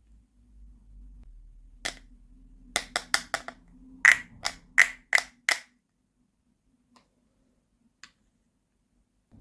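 Sharp clicks and taps of small hard plastic toy pieces being handled: one, then a quick run of about nine, then two faint ticks near the end.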